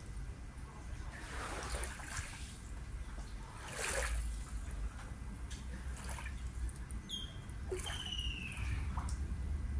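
Water lapping and splashing in irregular bursts over a steady low rumble. A bird calls twice near the end, each call a short falling note.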